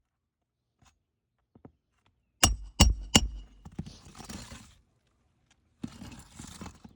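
Three sharp metallic clinks in quick succession, then two stretches of gritty scraping: a metal roofing tool striking and working against brittle asphalt shingles as they are pried loose.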